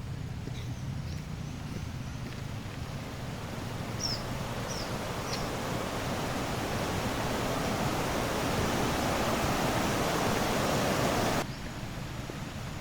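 Rushing river water, a steady hiss that swells louder over several seconds and then cuts off suddenly. A bird gives three short, falling chirps partway through.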